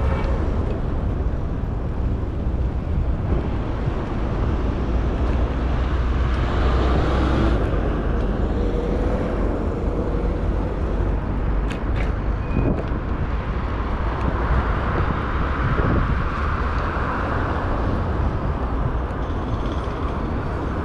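Road traffic noise: a steady rumble of passing vehicles, with a few sharp clicks about halfway through.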